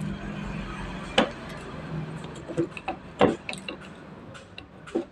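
Cutters snipping the excess leads of newly fitted capacitors on a circuit board: a series of sharp clicks, the loudest about a second in and about three seconds in, with a few lighter snips after.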